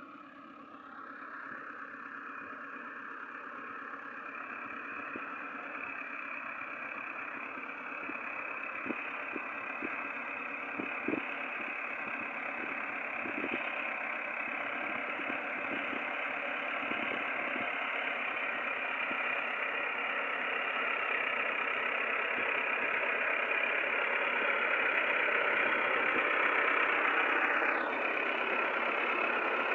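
A tractor engine running steadily, growing gradually louder throughout, with a few short knocks about a third of the way in.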